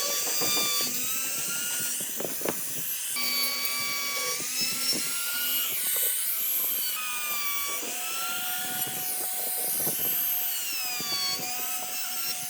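High-speed rotary power tool whining as it works wood. Its pitch repeatedly sags and recovers as the tool bites and eases off, with light knocks mixed in.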